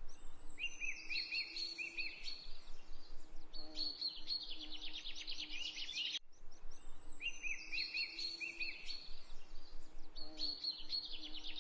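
A songbird singing: a few short chirps followed by a long, fast, high trill. The same phrase repeats about every six seconds, as from a looped recording.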